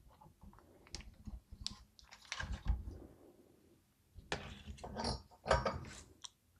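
Hands handling modular power-supply cables and their plastic connectors: irregular small clicks and rustles, pausing briefly about halfway, then a further run of clicks.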